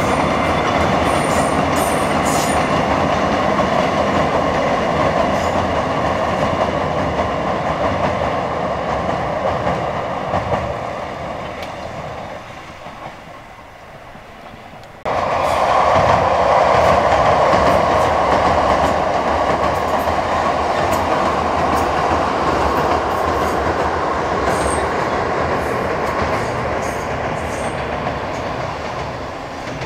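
Kotoden retro train with nose-suspended traction motors running over a railway bridge, fading away as it passes. After a sudden cut about halfway, a Kotoden 1100 series electric train (ex-Keio 5000 series) runs loudly over the same bridge and fades near the end.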